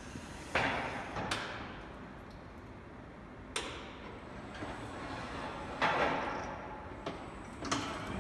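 Five separate knocks and clatters, a few seconds apart, each fading out over up to about a second.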